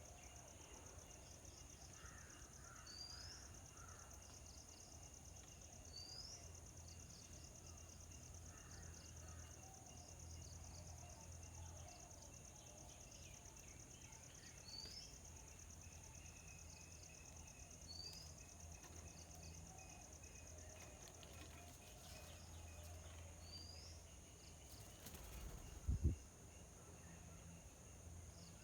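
Faint outdoor ambience: a steady high insect trill, with a bird's short rising call repeated every few seconds and one low thump near the end.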